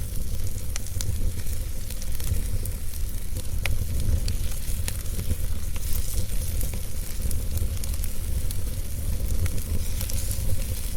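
Wood fire crackling, with scattered sharp pops and a sizzling hiss over a steady low rumble.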